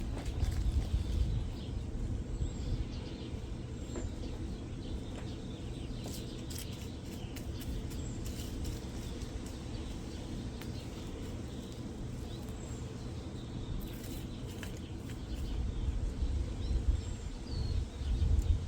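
Faint, short bird chirps, spaced a few seconds apart, over a steady low outdoor rumble.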